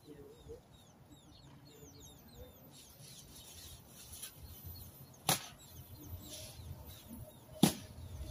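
A small bird's rapid series of short, high chirps, each falling in pitch, about three a second, fading out about three seconds in. Then two sharp clicks or knocks, the second, near the end, the loudest.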